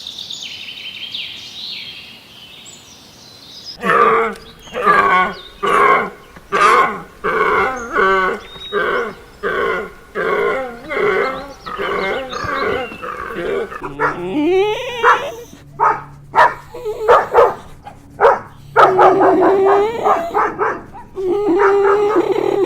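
A dog barking repeatedly, at first in an even rhythm of about one bark a second, then in quicker, irregular barks with a rising whine partway through.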